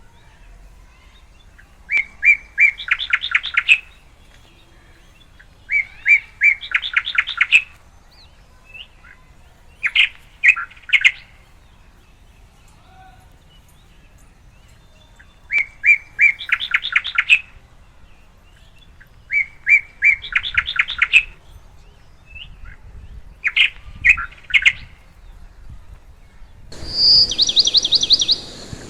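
A songbird singing the same phrase over and over, about every four seconds: a few separate notes, then a fast trill. Near the end a different, higher chirping comes in over a background hiss.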